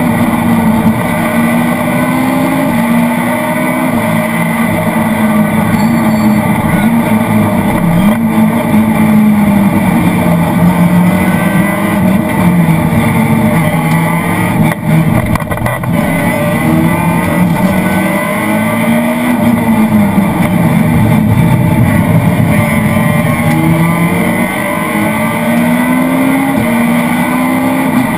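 Citroën Saxo VTS rally car's 1.6-litre 16-valve four-cylinder engine at stage pace, heard from inside the stripped cabin, with road noise. The engine note climbs and drops again and again as the car accelerates and slows.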